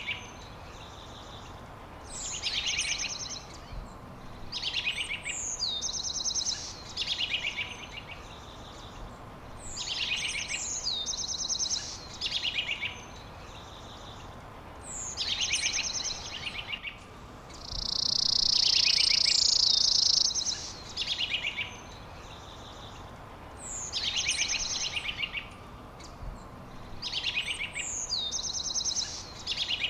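Songbird singing the same short phrase over and over, every couple of seconds: a high note sliding down into a fast trill. About halfway through, a loud buzzy sound lasts about two seconds.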